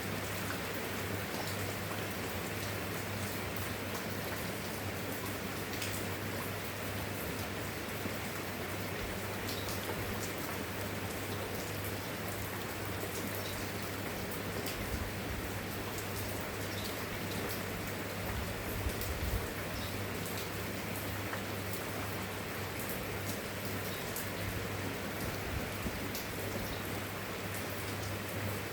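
Steady, even rain with many individual drops ticking and pattering. A steady low hum sits underneath, and a low swell comes briefly past the middle.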